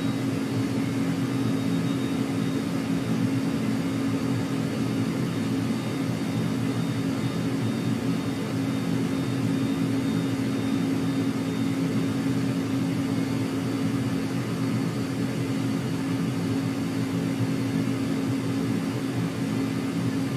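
Steady engine hum: a low drone with a faint high whine above it, unchanging in pitch and loudness throughout.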